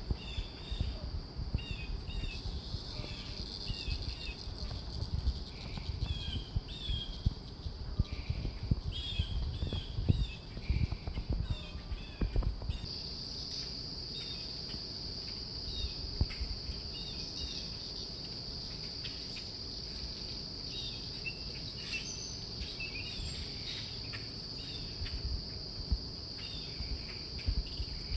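Many short bird chirps over a steady, high-pitched insect drone that grows louder a little under halfway through, with low thumps and rumble underneath.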